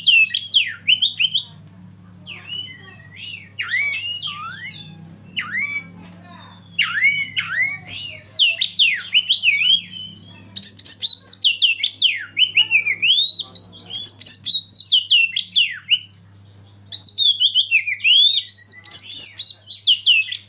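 Oriental magpie-robin singing in rapid phrases of sweeping, varied whistles and chirps, five bursts with short pauses between, over a low steady hum.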